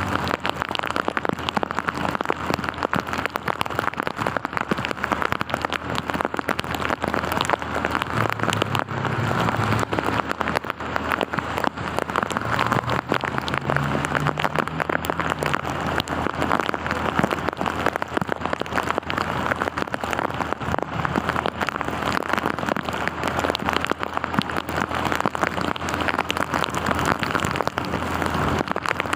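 Heavy rain falling, a dense steady patter of drops striking close by. A low hum, like a passing engine, comes up and fades in the middle.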